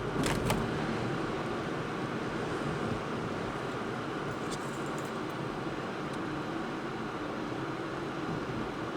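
Steady road and engine noise of a car being driven, with a couple of brief clicks near the start and another about halfway through.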